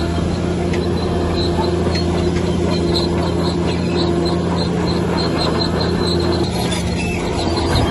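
Bulldozer's diesel engine running steadily with a deep hum, with repeated short high squeaks over it. The engine note eases slightly near the end.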